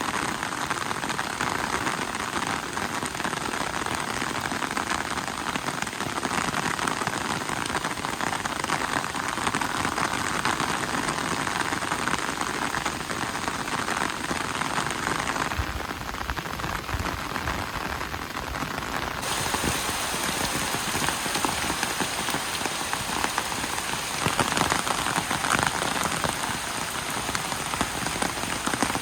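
Steady rain falling, a dense even patter without a break. For a few seconds past the middle the sound turns briefly duller, losing its top end.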